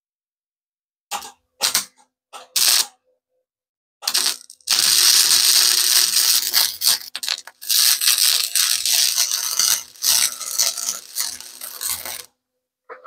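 Electric arc welder crackling as it strikes three short tacks, then runs a bead for about eight seconds with a dense, sputtering hiss before stopping.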